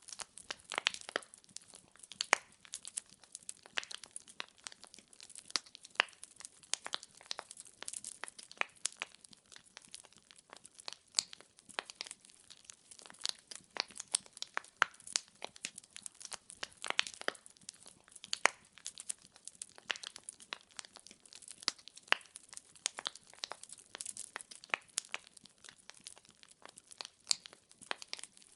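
Wood fire in a fireplace crackling: irregular sharp pops and snaps of burning logs, several a second, over a faint hiss.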